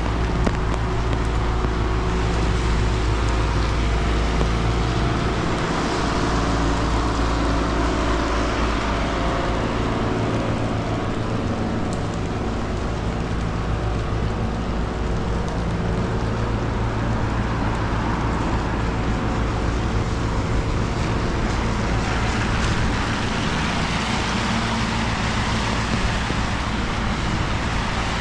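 Road traffic in a rainy town street: a steady wash of engine and tyre noise that swells as vehicles pass, with a low rumble of wind on the microphone.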